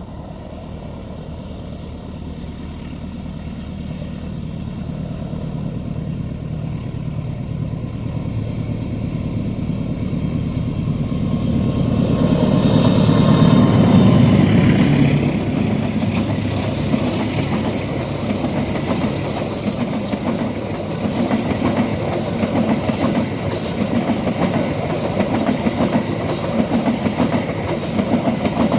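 Diesel-locomotive-hauled passenger train approaching and passing close by: the engine grows louder, peaks about halfway with a falling pitch as the locomotive goes past, then the carriages' wheels clatter rhythmically over the rails.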